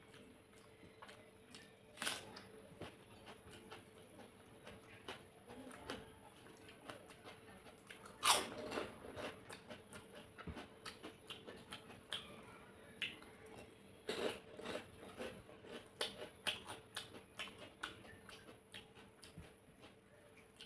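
Close-up eating sounds: chewing and smacking with repeated crunchy bites of crisp fried papad. The loudest crunch comes about 8 seconds in, with another strong burst of crunching around 14 seconds.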